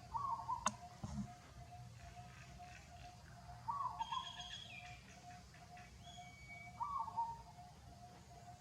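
Birds calling outdoors: a short call repeats about every three seconds over a steady, evenly pulsed note about three times a second, with higher chirps in the middle. A single sharp click sounds just under a second in.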